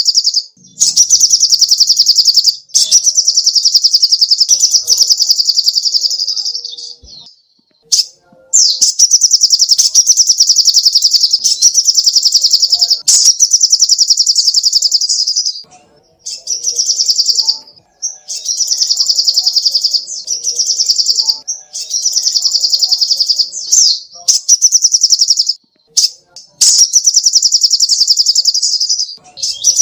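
Sogok ontong bird singing in long, loud, high-pitched rapid trills, each phrase lasting a few seconds and repeated after short breaks.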